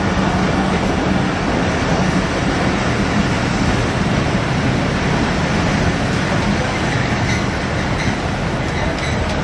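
Passenger train coaches rolling past a station platform, a steady rumble of wheels on the track with a low hum underneath.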